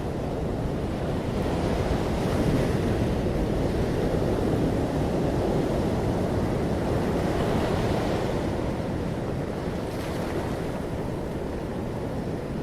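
Sea waves washing onto the shore: a continuous rushing surf that swells a little a couple of seconds in and eases off toward the end.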